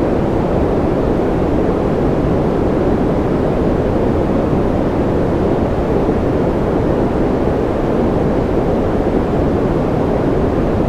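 Steady generated noise, a deep even rush weighted to the low end rather than a bright hiss, with no changes or separate sounds.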